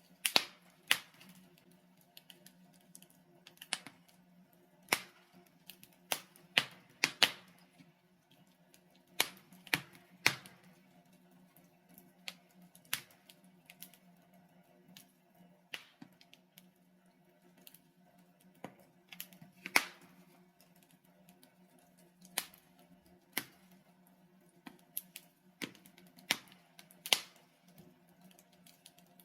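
Logs burning in a fireplace, crackling with irregular sharp pops and snaps, sometimes two or three close together, over a faint steady low hum.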